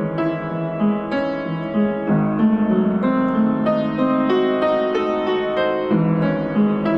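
Background piano music, a series of struck notes in a steady gentle rhythm.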